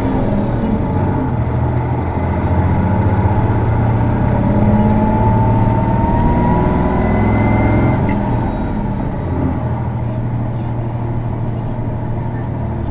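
Isuzu Erga city bus diesel engine heard from inside the cabin, pulling hard as the bus accelerates away. A whine rises in pitch for about eight seconds, then the engine eases to a steadier drone. This unit's engine is known for a distinctive abnormal noise, a symptom also found on other PKG-series Ergas.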